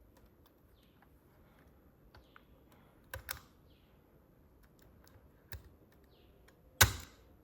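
Small plastic-and-metal clicks and taps from a diecast Scania S730 model truck being handled. A sharper, louder click comes near the end as its tilting cab snaps shut on its latch.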